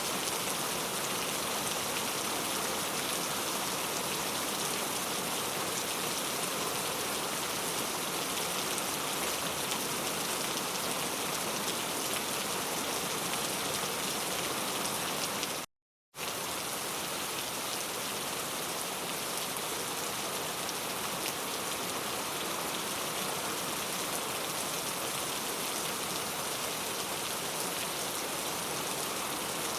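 Heavy rain falling steadily, a dense, even hiss of countless drops. About halfway through it cuts out completely for about half a second, then resumes unchanged.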